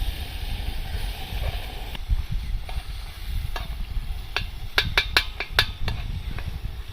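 Tomatoes frying in a pan while a metal spoon stirs them, clinking against the pan a dozen or so times in the second half. A steady low rumble of wind on the microphone runs underneath.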